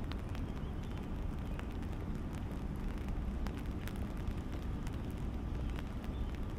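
Rain falling on an umbrella held overhead: many sharp, scattered drop ticks over a steady hiss of rain, with a constant low rumble beneath.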